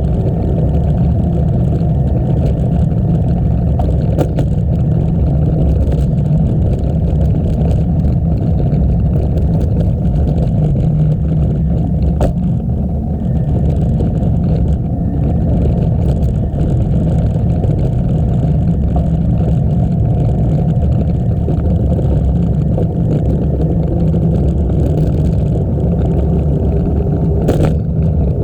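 Wind rushing over the microphone of a moving bicycle, a steady low rumble, with a few brief clicks.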